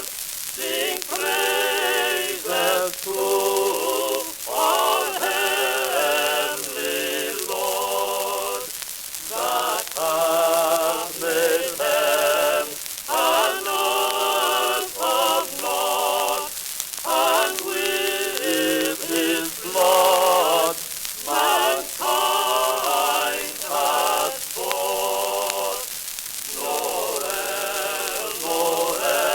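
Singing with a wide vibrato, played from an early acoustic-era shellac phonograph record: thin and boxy, with almost no bass. A steady hiss and crackle of record surface noise runs underneath.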